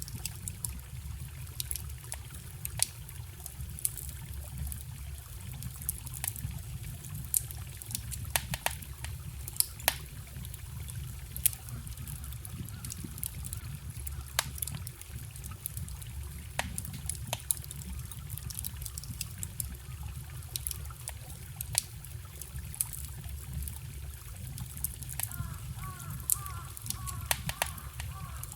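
Wood fire crackling, with scattered sharp pops, over the steady rush of a small stream.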